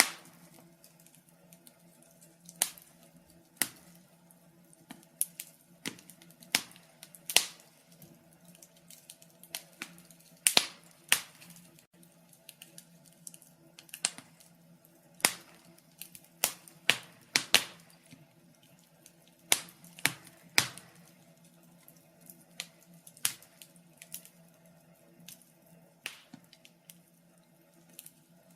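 Wood fire crackling: irregular sharp pops and snaps, a few much louder, with a faint steady low hum beneath.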